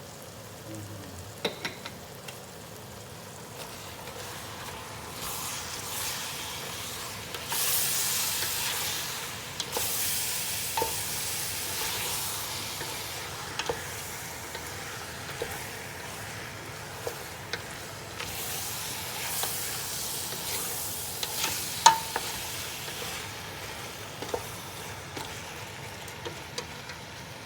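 Chicken frying in a pot while it is stirred: a steady sizzle that swells louder twice, with scattered clicks of the spoon against the pot.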